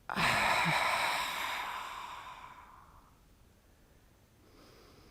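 A person blowing a breath out hard through the mouth: a sudden loud rush of air that fades away over about two and a half seconds, followed near the end by a faint breath in through the nose. It is a yogic kriya cleansing breath, forced out to empty the residual air from the lungs.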